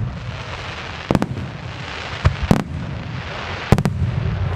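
Fireworks display: aerial shells bursting with sharp, loud bangs in pairs, about a second in, just after two seconds and near four seconds. A dense hiss and a low rumble of further bursts run between the bangs.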